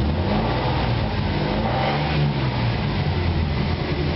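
Taurus SHO 3.2 V6 running through headers, a Y-pipe and a single 2.5-inch exhaust with a turbo muffler. Its note rises over the first two seconds, drops back, then holds steady.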